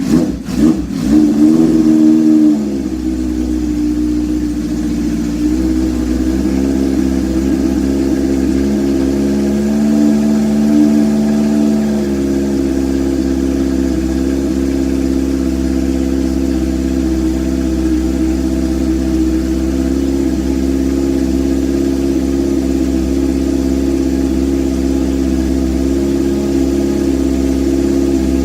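A 1974 Honda CB750K's air-cooled inline-four running on a cold start through a Mac 4-into-1 exhaust canister with its baffle removed and a DK Customs Thunder Torque insert. It is uneven for the first couple of seconds after catching, then settles into a steady idle, with a brief rise in revs about ten seconds in.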